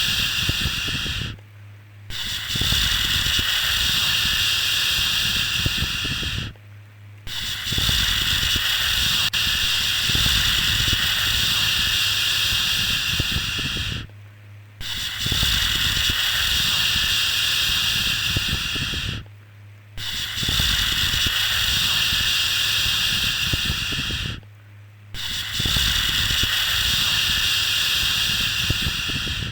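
A long, steady 'shhh' shushing sound for soothing a baby to sleep, repeated in stretches of about five seconds with short breaks between them, like breaths.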